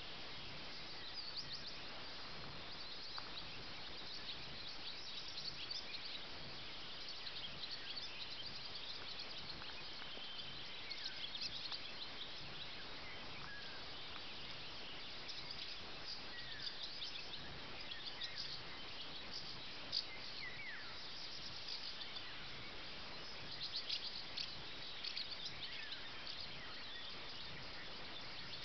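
Birds chirping and singing in short high calls and quick falling whistles, scattered over a steady faint hiss.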